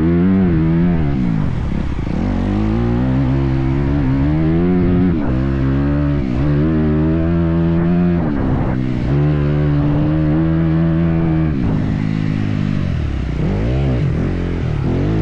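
Motocross dirt bike engine revving hard, its pitch holding steady for stretches and then dropping and climbing back up several times.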